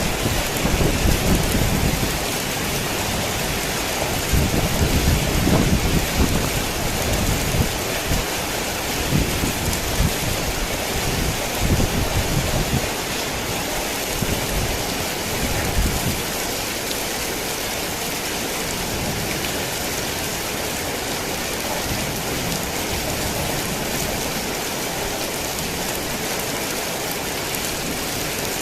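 Heavy rain falling steadily, a dense even hiss. Over roughly the first sixteen seconds there is an uneven low rumbling under it, which then dies away and leaves only the rain.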